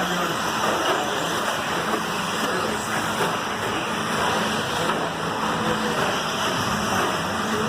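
Electric 1/10-scale two-wheel-drive short course RC trucks racing around the track, a steady, even running noise.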